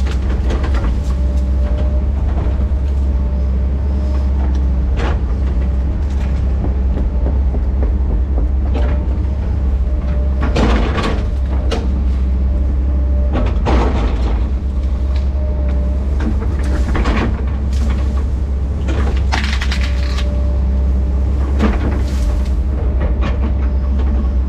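Diesel engine of a tracked earthmoving machine running steadily under load while it pushes felled trees and brush. Branches crack and scrape several times, loudest near the middle.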